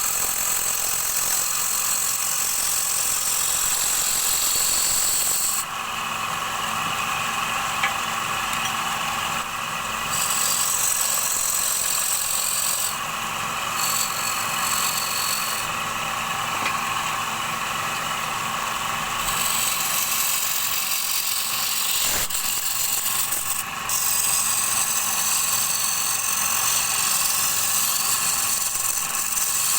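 Wood lathe running while a turning tool cuts a spinning wooden bowl blank, a steady hiss and scrape of the cut over the motor's hum. The cutting sound drops away several times for a few seconds, as the tool comes off the wood, and then resumes.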